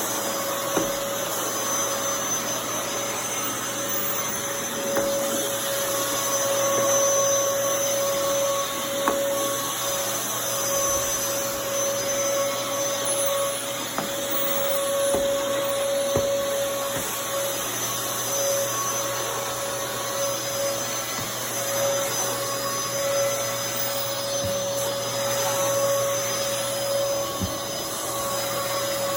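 Dyson DC23 Animal canister vacuum cleaner running steadily, a constant whine over rushing air, with a few small clicks.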